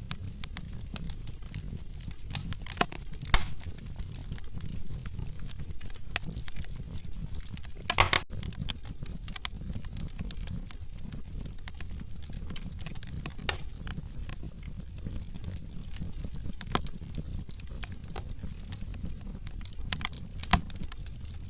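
Wood fire burning in a fireplace: a steady low rumble of flames with irregular crackles and snaps from the burning logs, and a few louder pops, the loudest about three and eight seconds in.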